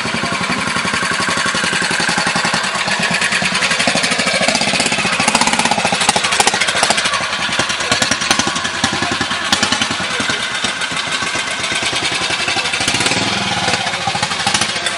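Classic trials motorcycle engine running hard close by, a fast steady run of exhaust beats that grows louder in the middle and eases off near the end.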